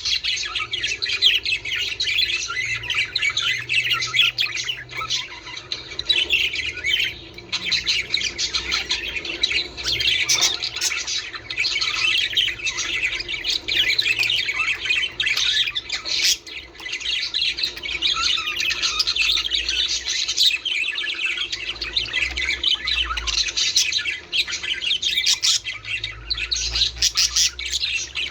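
Budgerigars chattering and warbling continuously, a dense stream of chirps and squawks with no pause.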